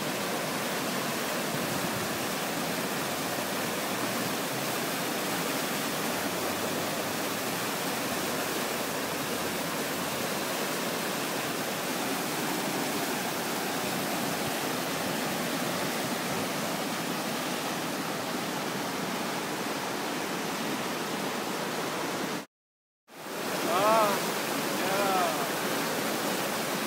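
Floodwater rushing steadily in a constant wash of noise. It breaks off for about half a second near the end, and a voice is heard over the water afterwards.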